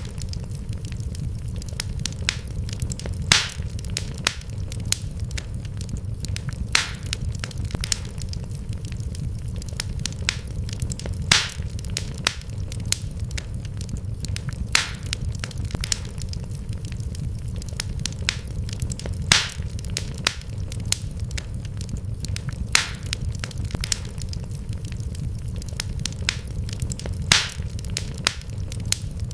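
Wood fire crackling in a fireplace: a steady low rumble of burning with frequent sharp pops and cracks, the loudest coming every few seconds.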